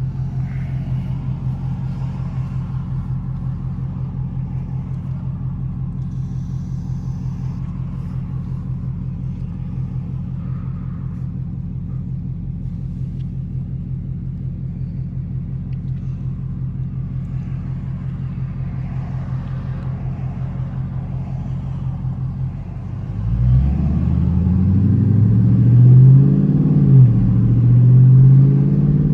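Dodge Charger R/T's V8 idling with a steady, even pulse. About 23 seconds in it revs up and pulls away, louder, its pitch climbing, dipping and climbing again.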